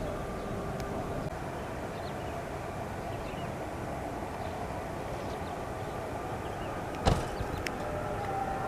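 Antonov An-124 Ruslan's turbofan engines running at a distance: a steady rumble with a faint whine. A sharp knock cuts in once about seven seconds in.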